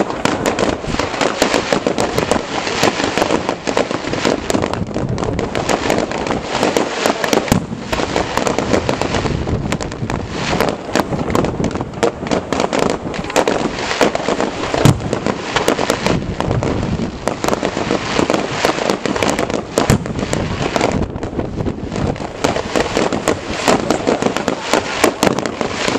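Fireworks display: a dense, continuous barrage of crackling and popping, with many sharp bangs close together.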